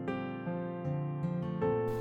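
Gentle background music: softly played acoustic guitar, a calm, tender instrumental.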